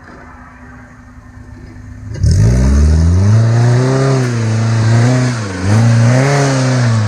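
Off-road 4x4's engine running low, then revved hard about two seconds in, its pitch swelling and dipping several times as it is pushed through an obstacle.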